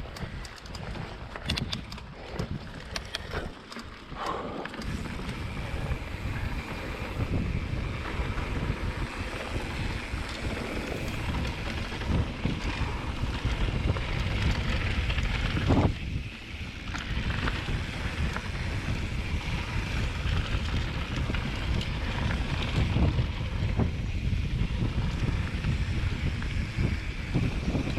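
Mountain bike ridden along a dirt trail: wind buffeting the microphone over a steady rumble of tyres, with frequent rattles and knocks from the bike over bumps.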